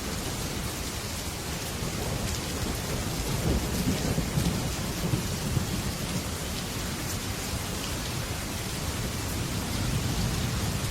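Heavy rain falling steadily on a metal roof, with a low rumble of thunder that swells from about three and a half seconds in and eases after about five seconds.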